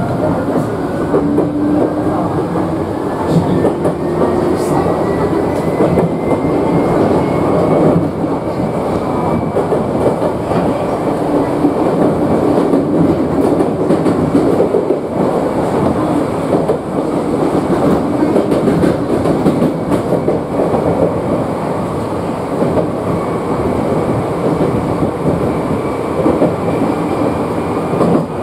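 The rumble of a Chichibu Railway 7500 series electric train, heard from inside the carriage, with wheels clattering over rail joints. A motor whine rises in pitch over the first ten seconds or so as the train gathers speed, then levels off.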